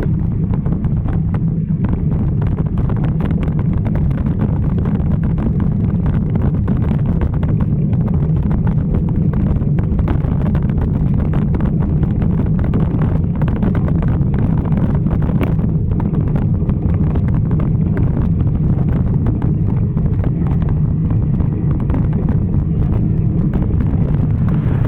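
Wind buffeting the microphone while riding a bicycle: a loud, steady low rumble that never lets up.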